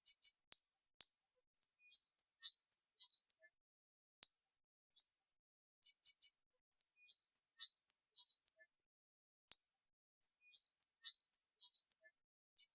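Kemade bird calling loudly and clearly: short upward-sweeping 'cit' notes repeated in quick groups of two to five, with pauses between the groups and a fast stuttering trill at the start.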